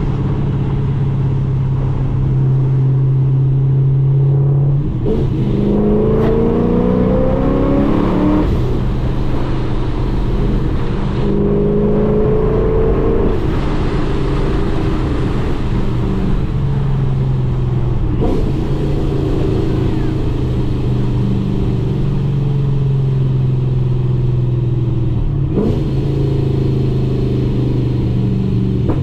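Supercharged, straight-piped Camaro engine and exhaust, cruising with a steady drone, then pulling hard about five seconds in, the note rising through a gear change. It climbs again briefly around twelve seconds and then eases back, with a few sharp clicks or pops between stretches of steady running.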